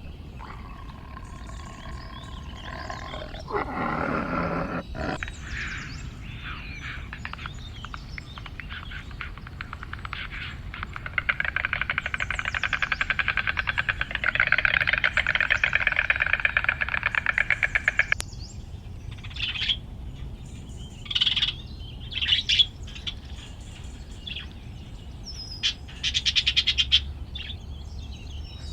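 Bird calls: a short call early on, then a long, rapid, buzzing trill lasting several seconds midway, followed by short separate chirps.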